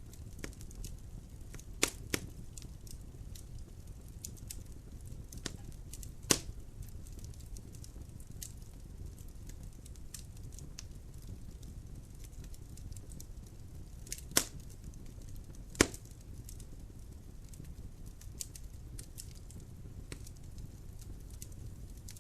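Logs burning in a fireplace, crackling: a steady low noise of the fire with scattered small crackles and five sharp pops, two close together about two seconds in, one about six seconds in, and two more past the middle.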